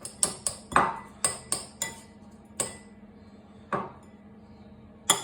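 Kitchen knife chopping garlic on a board: a quick run of sharp knocks about four a second, two single knocks, then another fast run near the end.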